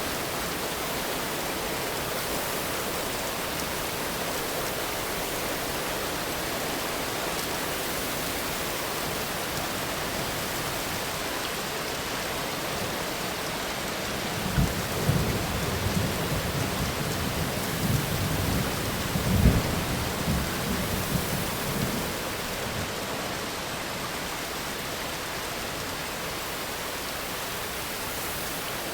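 Steady heavy rain with a burst of crackling thunder about halfway through, the loudest crack some seven seconds after it starts, then rumbling back down into the rain.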